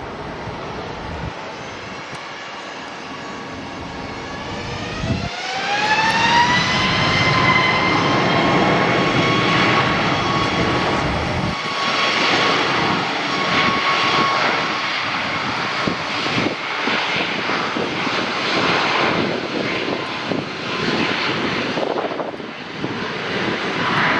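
Jet airliner engines spooling up. A whine rises in pitch about five seconds in, then holds steady over the loud roar of the engines at high thrust.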